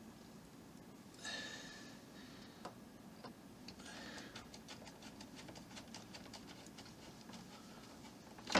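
Small screwdriver driving tiny screws into a plastic model base: faint, rapid light ticks. Two brief rustles of parts being handled come early in the sound.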